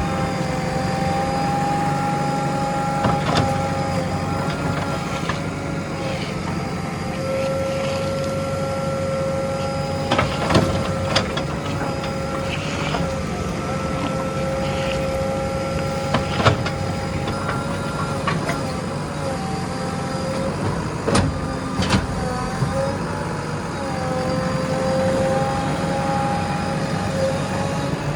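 JCB 3DX backhoe loader running steadily, its diesel engine humming under a high, slightly wavering whine, with a few sharp knocks during the work.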